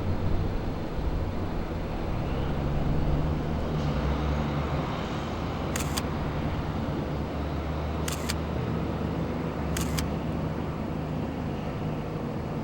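Motor vehicle engine running with a steady low drone, with a few short sharp clicks about six, eight and ten seconds in.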